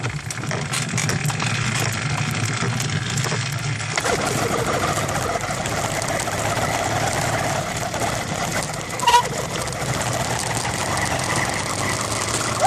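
Small engine of a motorized bicycle running steadily, its note shifting higher about four seconds in as it is ridden. A brief high chirp comes about nine seconds in.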